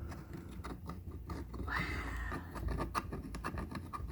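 Scraping and scratching of a small tool working coffee grounds and scale out of the brew head of a Hamilton Beach 40715 espresso maker, with irregular clicks and a short high squeak about two seconds in.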